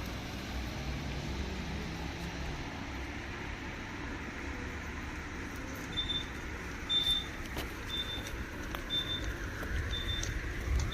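Road traffic passing, a steady rumble of car engines and tyres. From about six seconds in, a short high electronic beep repeats about once a second.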